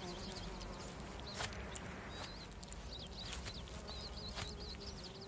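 Small birds chirping in quick high notes, building into a fast trill of repeated notes near the end, with a few sharp clicks scattered through it.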